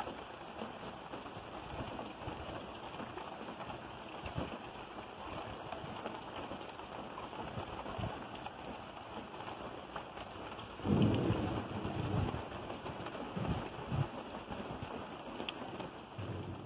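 Rain falling steadily on an outdoor fish pond's water and plants, with a few low thumps, the loudest about 11 seconds in.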